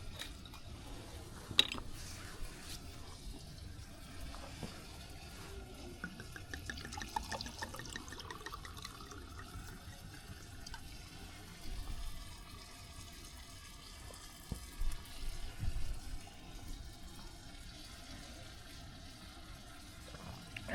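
Water being poured or sloshing in a container, rising in pitch for a few seconds in the middle, with a sharp click near the start and a few dull thumps later.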